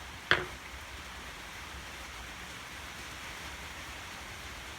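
A single sharp click about a third of a second in, over a steady background hiss.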